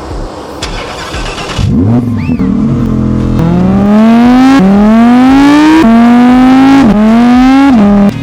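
Audi R8 Spyder engine accelerating hard through the gears: after a first rev, the note climbs steadily and drops sharply at each upshift, four shifts about a second apart, then cuts off just before the end.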